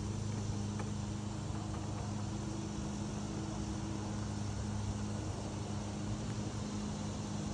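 A steady low machine hum with an even pitch, over background hiss.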